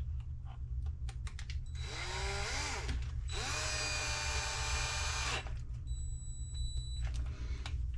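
Small power drill running in two bursts, a short one and then a longer one, each rising in pitch as it spins up, driving a screw through a part. There are light clicks of small parts being handled before and after.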